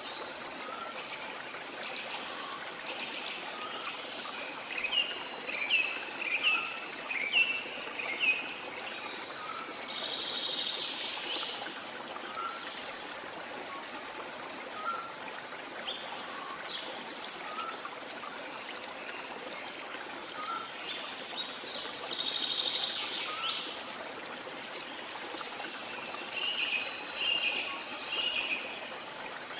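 Steady rush of flowing water from a waterfall, with songbirds calling over it. A quick series of sharp chirps comes about four to eight seconds in, and more calls come around eleven, twenty-two and twenty-seven seconds in. A faint soft note repeats about every second and a half underneath.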